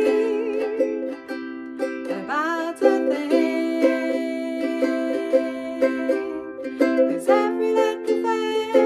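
A solo voice singing a melody over a strummed acoustic string instrument keeping a steady rhythm.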